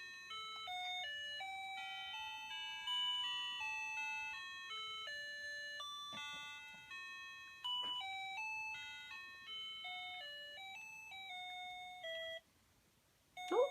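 Musical plush puppy toy playing an electronic lullaby, a simple tune of clear single beeping notes, which stops about twelve seconds in.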